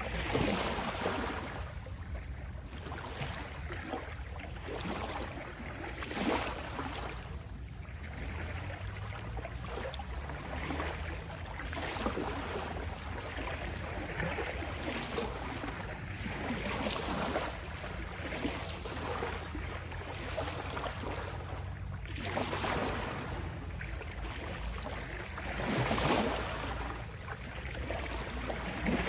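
Small waves lapping and rippling at the shore, a continuous wash with soft swells every few seconds.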